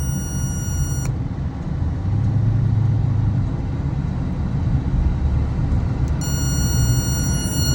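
2006 Dodge Magnum idling with a steady low rumble. A high, even buzzing tone comes in over it twice: for about the first second, and again from about six seconds in. This is the buzz that starts when the brake pedal is pressed.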